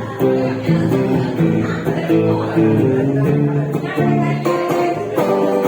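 Music on acoustic guitar, strummed and picked through a run of chords.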